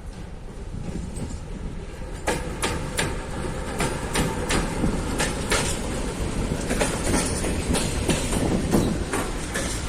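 Freight train of coal wagons rolling past slowly, the rumble joined about two seconds in by many sharp clacks and knocks as the wheels cross rail joints. The train is slowing to stop at a signal.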